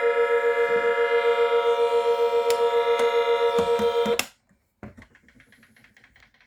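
Milton Bradley Star Bird toy spaceship's electronic sound: a steady buzzy tone pulsing about four to five times a second. It cuts off suddenly after a few clicks about four seconds in. A single click and faint handling noise follow.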